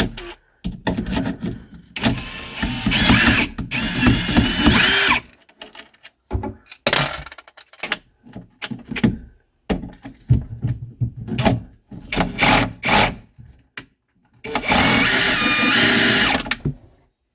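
Cordless drill/driver running in two spells of a few seconds each, its motor whine shifting and rising in pitch as it drives fasteners out, with short clicks and knocks of handling parts in between.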